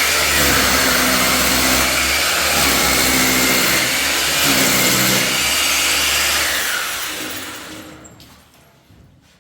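Electric power tool motor starting abruptly and running hard for about six and a half seconds, its pitch dipping a few times as it takes load, then spinning down over about two seconds once released.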